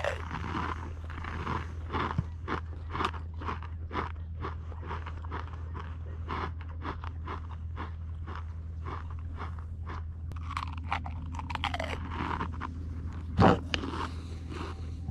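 Pringles potato chips being chewed close to the microphone: a steady run of crisp crunches, roughly two a second, over a steady low hum. There is one louder thump near the end.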